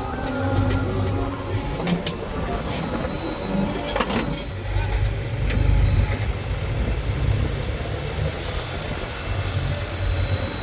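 Diesel engine of a JCB 3DX backhoe loader running steadily at work, with a few sharp knocks, the clearest about four seconds in.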